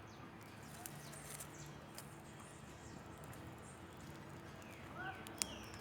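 Small campfire of dry twigs and sticks burning with faint crackling and a few scattered sharp pops.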